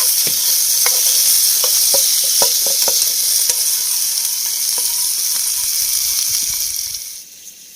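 Food sizzling in a hot pan with a steady hiss, while a utensil stirs and taps against the pan in short clicks; the sizzling drops away abruptly about seven seconds in.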